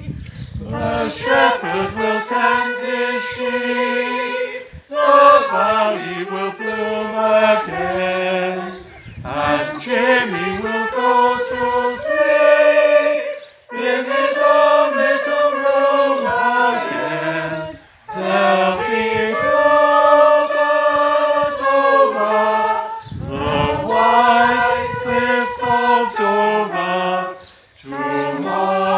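Several voices singing a song together in sung phrases a few seconds long, with short breaks between them.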